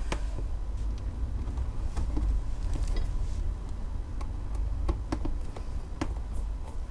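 Scattered light clicks and knocks from small items being handled, over a steady low rumble.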